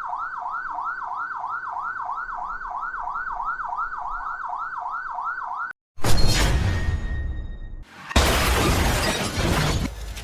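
Police siren on a fast yelp, sweeping up and down about four to five times a second, cutting off abruptly about six seconds in. It is followed by two loud, noisy stretches of sound, like a crash or whoosh.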